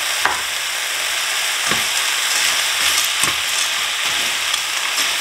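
Diced smoked sausage, vegetables and dry penne pasta sizzling in oil in a hot skillet, with a slotted spatula scraping and stirring through them in several strokes.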